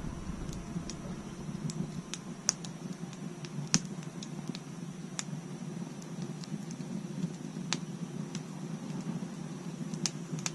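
Wood fire crackling: irregular sharp pops and snaps of burning wood, the loudest two a little over a second apart near the start, over a steady low rush of the flames.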